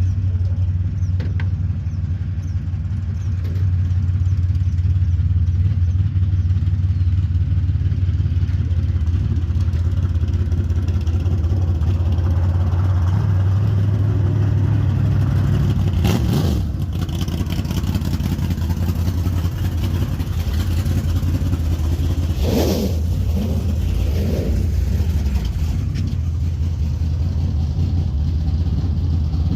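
Vehicle engine running with a steady low rumble as it is driven slowly, growing a little louder about four seconds in. Two brief clatters come about halfway and about three-quarters of the way through.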